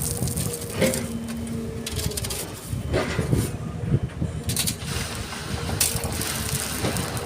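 Excavator at work: engine rumbling under repeated crunching and clanking as the bucket digs through sand and stones, with a faint steady whine over it.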